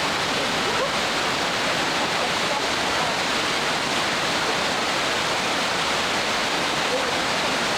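Steady rushing of river rapids: a loud, even roar of white water.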